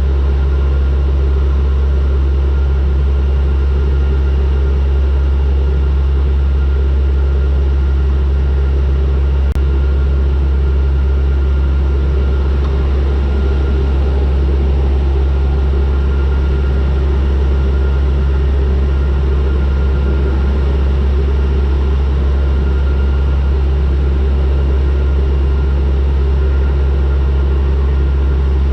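Turboprop aircraft's engines and propellers heard on board in cruise descent: a loud, steady deep drone with a few constant tones above it.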